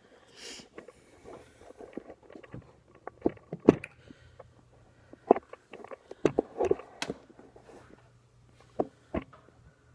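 Irregular knocks, clicks and rustles of a camera being handled and repositioned, the loudest clustered in the middle of the stretch, over a faint steady low hum.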